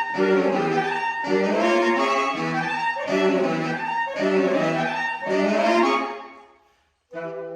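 Saxophone quartet of soprano, alto, tenor and baritone saxophones playing loud, repeated chordal phrases about once a second. The sound dies away about six seconds in to a brief silence, then a quieter sustained chord begins near the end.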